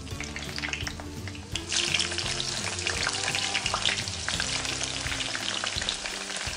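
Diced eggplant, salted and blotted dry, dropped piece by piece into hot oil in a wok, sizzling and crackling as it starts to fry. The sizzle gets much louder a little under two seconds in as more pieces hit the oil.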